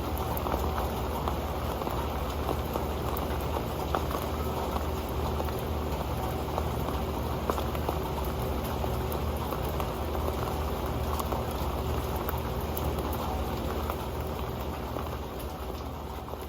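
Rain falling on an old pan: a dense, steady patter of drops hitting it, with a low rumble underneath, fading out near the end.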